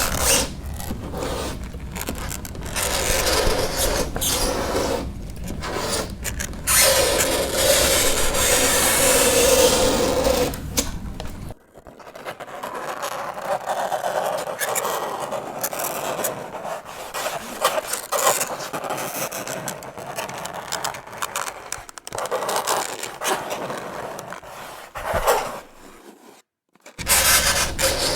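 Fingernails scraping across a chalkboard in a run of repeated rasping strokes of uneven length, broken by short gaps, with a brief pause near the end.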